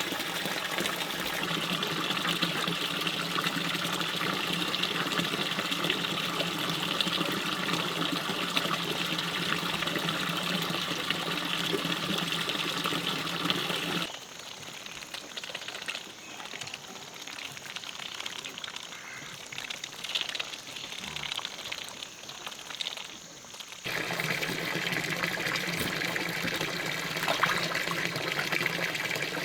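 Stream water rushing steadily. For about ten seconds in the middle the rush drops away to a quieter background with small scattered ticks and splashes, then the full rush returns.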